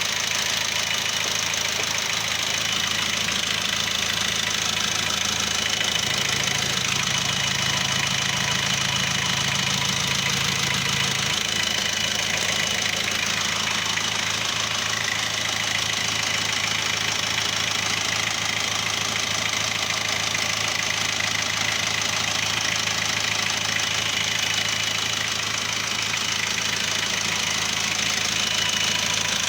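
Chevrolet LUV's engine idling steadily, with a low hum note that comes in for a few seconds about six seconds in.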